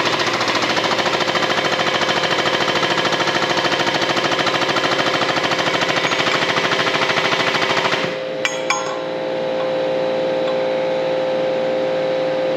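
A power tool running with a rapid, even hammering that stops about eight seconds in, followed by a couple of clicks and then a steady hum.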